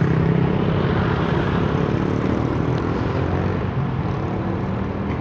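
Vehicle engine droning steadily, heard from inside a moving car, over a dense rush of wind and road noise; the engine tone slowly fades.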